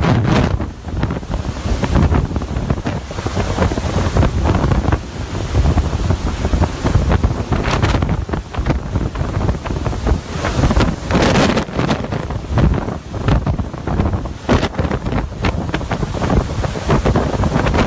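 Hurricane-force wind blasting across the microphone: a loud, continuous low rumble, with sharper gusts several times.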